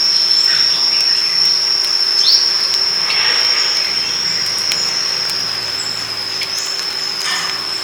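Steady high-pitched insect trill, like a cricket's, with a few brief bird chirps over it, the clearest about two seconds in.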